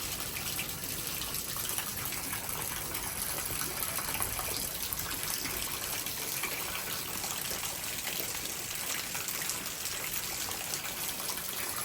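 Heavy thunderstorm rain pouring steadily, with water gushing over an overflowing rain gutter.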